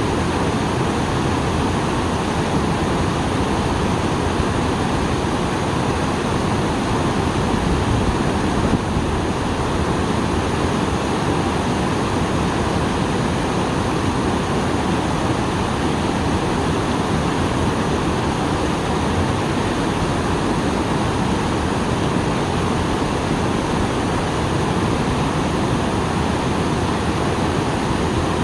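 Small waterfall pouring steadily after rain, a dense unbroken rush of falling water.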